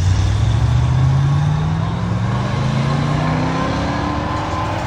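A car engine accelerating hard, starting suddenly and then rising steadily in pitch, as a car pulls away out of the show.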